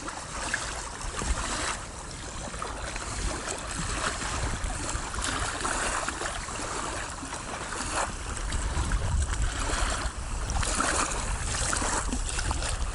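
Wind buffeting the microphone over water lapping at the shore, with a few short knocks along the way.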